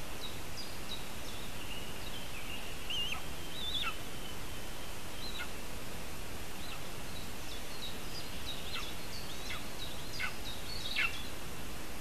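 Small birds chirping and calling in short thin notes, some of them quick falling whistles, over a steady hiss.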